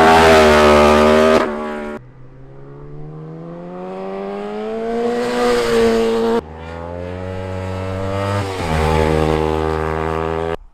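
Street motorcycle engines revving and accelerating hard, the engine note climbing through each pull, in several short passes that cut off abruptly from one to the next.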